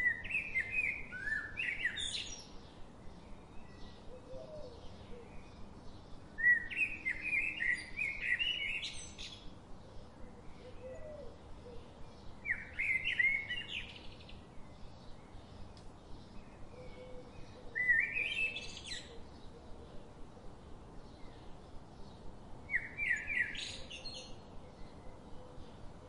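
A songbird singing the same short phrase about every five seconds, each a quick run of notes ending in a rising flourish. Between the phrases a faint regular ticking goes on about twice a second.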